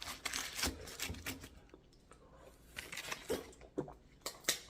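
Close-miked eating sounds of a person chewing a fried hot-chicken sandwich: irregular wet clicks and smacks, louder and more frequent in the second half.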